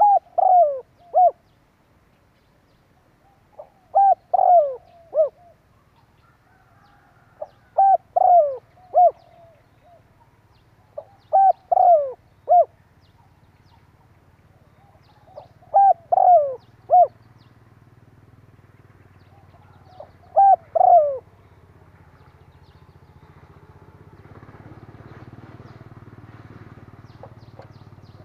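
A spotted dove cooing its three-to-four-note song, repeated six times at roughly four-second intervals. In the last few seconds, a low hiss/rumble of background noise rises while the bird is silent.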